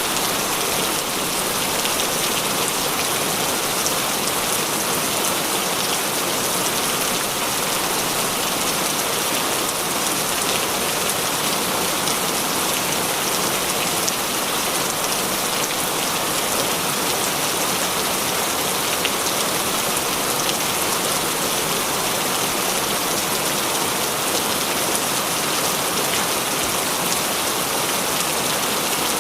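Heavy rain falling steadily, a dense even hiss of drops hitting surfaces, with many fine drop ticks and no let-up.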